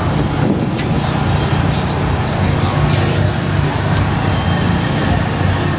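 V8 engine idling with a steady, even low rumble.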